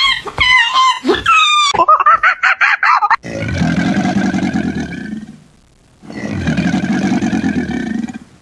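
Animal calls: high, wavering cries, then two long, deep roaring calls of about two seconds each.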